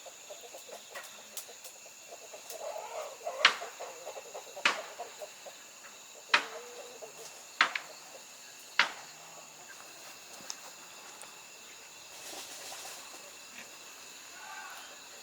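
Chickens clucking, with five sharp knocks about a second apart through the middle and a steady high insect drone behind.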